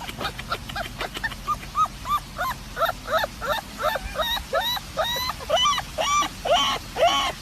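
Dog whining in a rapid series of short, high yips, about three a second, growing louder toward the end.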